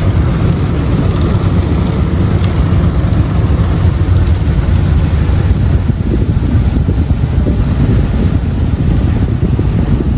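Automatic car wash heard from inside the car's cabin: a loud, steady rushing and rumbling as the wash machinery works over the body during the cleaning stage.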